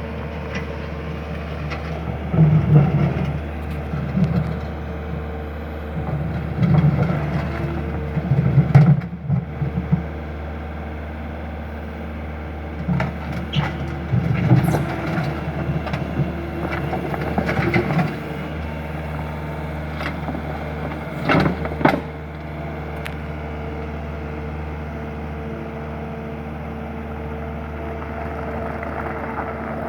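Skid steer loader's engine running steadily, swelling in several louder surges of a second or two as the machine is driven and its controls worked, with a few sharp metallic clanks.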